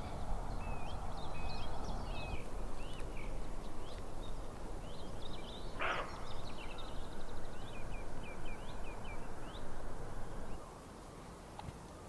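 Small birds chirping in many short, quick up-and-down notes over a steady rushing background, with one brief sharp sound midway. Near the end the rushing background drops away suddenly and the chirping stops.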